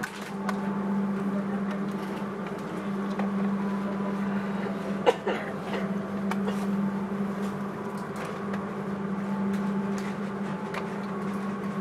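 Steady hum inside a moving passenger train carriage, with scattered light clicks and one sharp knock about five seconds in.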